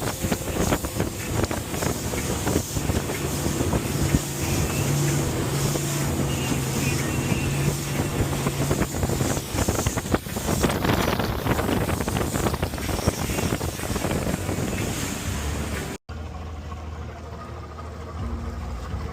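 An engine running, with heavy wind buffeting the microphone. About sixteen seconds in, the sound breaks off abruptly and gives way to a quieter, low steady hum.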